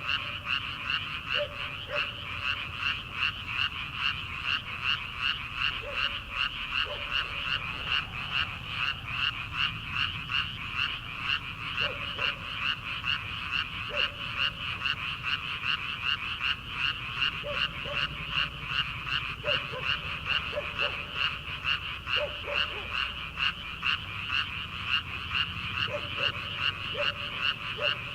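A dense chorus of frogs calling from rice paddies at the start of summer, a steady rhythmic pulsing of high croaks. Now and then a lower-pitched call breaks in over it.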